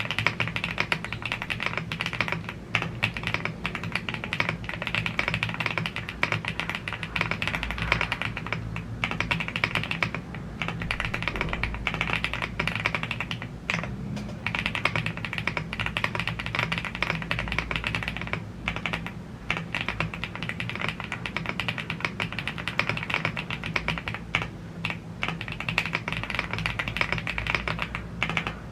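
Fast, continuous typing on a gasket-mounted CNC aluminium 75% mechanical keyboard (YUNZII AL75) with Blue Grey tactile switches and PBT keycaps, with a few brief pauses.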